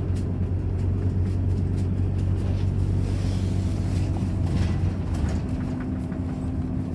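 Scania Citywide city bus's ethanol-fuelled engine running steadily. A steady higher tone joins about five and a half seconds in.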